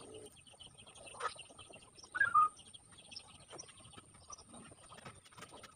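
Small birds chirping in quick repeated notes, with one louder short call a little over two seconds in.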